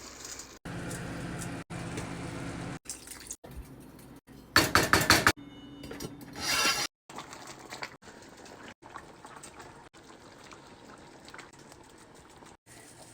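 Cooking sounds in a string of short clips: a pot and utensils clinking and liquid being poured into the pot. About halfway through comes a loud rushing burst, the loudest sound, and a shorter one follows soon after. The rest has quieter scattered clinks.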